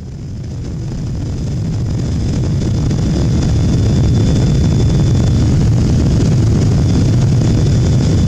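Steady jet engine and airflow noise inside the cabin of a Boeing 777-200, deep and even with a faint high whine. It fades in over the first few seconds, then holds level.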